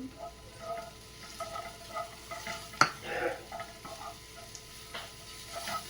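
Chopped vegetables sizzling in hot mustard oil in a pan while being stirred, with scrapes and light knocks of the spoon in the pan and one sharp clack near the middle.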